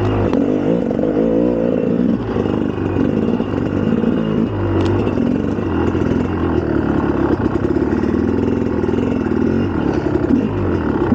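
2004 GasGas EC300 two-stroke enduro motorcycle engine under way, its pitch rising and falling repeatedly as the throttle is worked.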